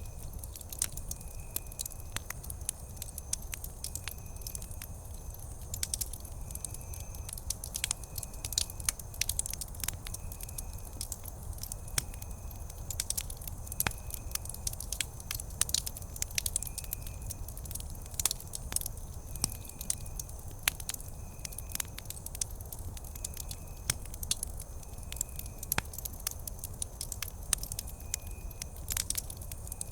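Wood campfire crackling, with dense irregular sharp pops and snaps over a low steady rumble of the flames. A faint short high chirp repeats about once a second in the background.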